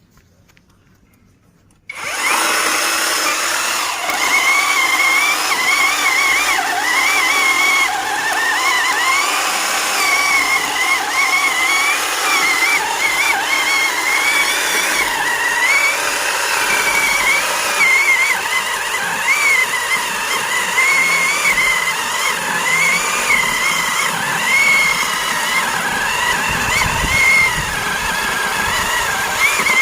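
Iron Hope two-stroke chainsaw engine starting up about two seconds in and running loudly, its pitch wavering up and down with the throttle.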